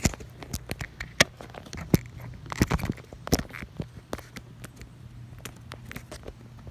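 Irregular clicks and knocks from a camera mount being handled and adjusted, bunched in the first half and thinning out later, over a low steady hum.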